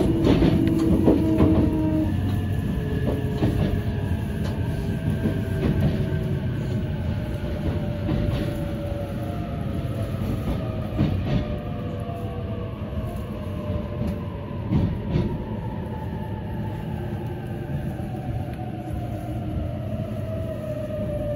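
Ride noise inside a JR 651 series electric train slowing into a station: rumble and wheel clicks over rail joints, with a motor whine that slowly falls in pitch as the train decelerates.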